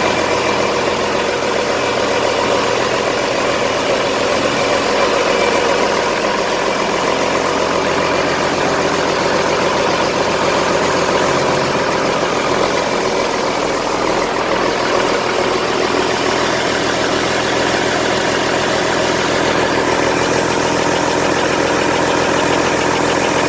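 Komatsu S6D125-2 six-cylinder diesel engine running steadily at idle.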